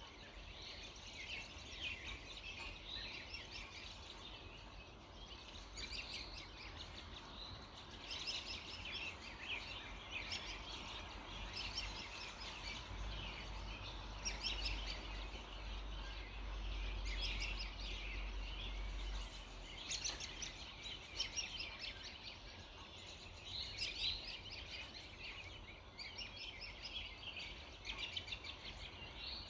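Many songbirds chirping and trilling at once in an early-morning chorus, calls overlapping without pause. A low rumble sits under the birdsong for several seconds in the middle.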